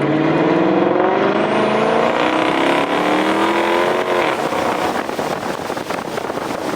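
A car engine accelerating hard, its pitch rising steadily for about four seconds, then the throttle lifts and it drops to a rougher rumble.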